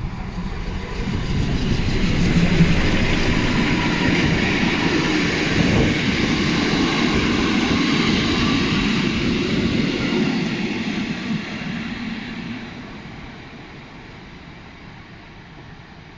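Steam locomotive 50 3516, a DR class 50.35 engine, and its train running past. The noise builds over the first couple of seconds, holds loud for several seconds, then fades away.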